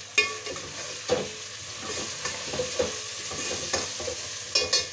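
Chicken and spices frying in oil in a pot, sizzling steadily, while a spoon stirs and scrapes around the pot in repeated strokes. There is a sharp metal clink just after the start and two more near the end.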